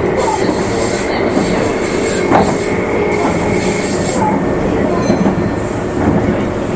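Meitetsu Nagoya Main Line limited express train running, a steady rumble with wheel squeal coming and going, and a single sharp knock about two and a half seconds in.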